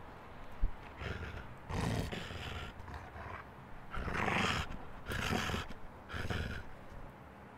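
A wolf-like beast growling and snarling in about four rough outbursts, the loudest about halfway through, with a short thump near the start.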